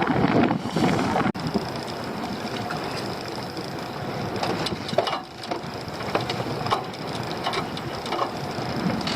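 Noise on a small fishing boat at sea: wind and water with scattered knocks and crackles, and a faint steady high whine from about a second in.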